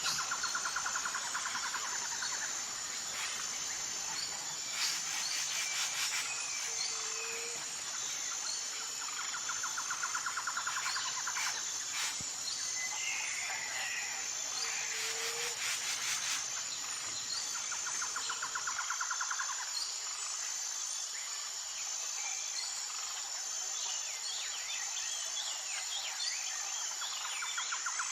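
Forest soundscape with a steady high insect drone, birds chirping, and a pulsing trill that comes back every eight seconds or so. A few short low whistles are mixed in.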